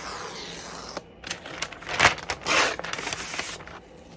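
Objects and packaging being handled: irregular rustling and scraping with a few sharp clicks, loudest about two to three seconds in.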